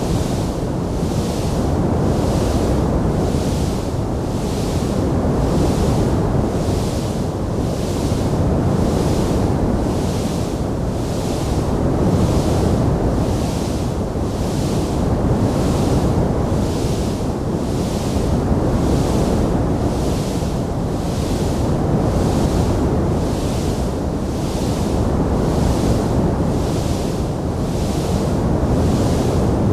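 Wood fire burning in a stone fireplace: a steady low rushing roar that swells and eases every few seconds, without distinct sharp crackles.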